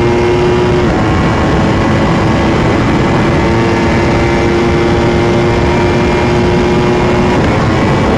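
Motorcycle engine running at steady revs under way, with heavy wind and road noise; the engine note dips slightly about a second in and drops away near the end.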